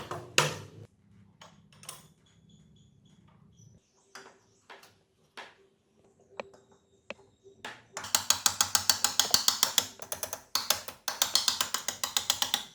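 Small metal parts clinking and tapping, some leaving a short high ring. From about eight seconds in comes a run of fast, even metallic clicking, roughly eight to ten clicks a second, with a short break near the end.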